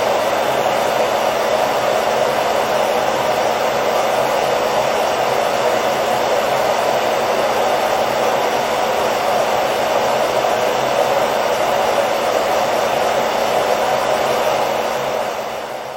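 Hair dryer running with a steady whooshing hum, fading out near the end.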